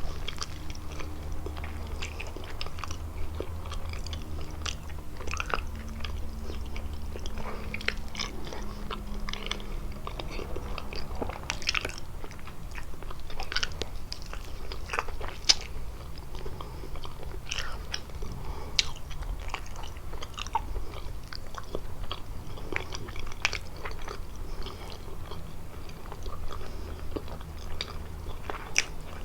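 Close-miked chewing and biting of kalaj pastry, with frequent irregular crunches and wet mouth clicks over a low steady hum.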